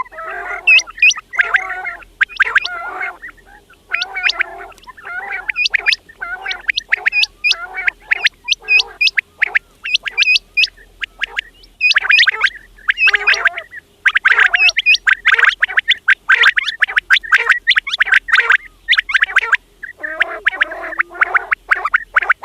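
Quails calling: rapid clusters of short, sharp notes that hook upward in pitch, repeated over and over with brief pauses between bursts.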